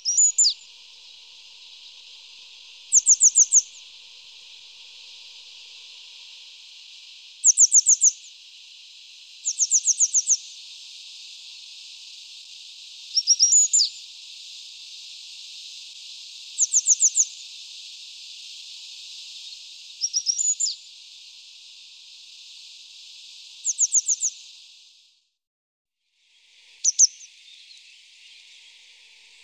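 Birdsong: short bursts of quick repeated chirps every three to four seconds, with a few single sliding calls between, over a steady high-pitched hiss. The sound cuts out for about a second near the end, then the chirping resumes.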